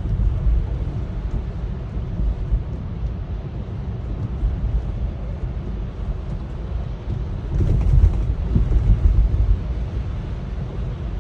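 Steady low rumble of wind and city traffic in a snowstorm, swelling louder for a moment about eight seconds in.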